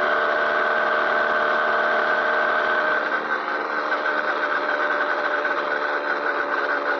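Motorized bicycle's small engine running at a steady speed while riding, holding a nearly constant pitch with a rapid flutter in its upper tones from about halfway.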